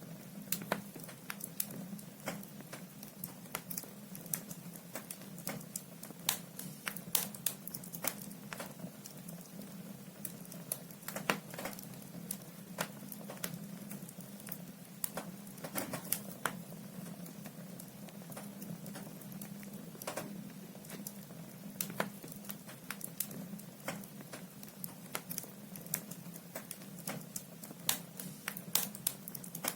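Firewood logs burning in a fireplace, crackling with frequent irregular sharp pops and snaps over a steady low hum.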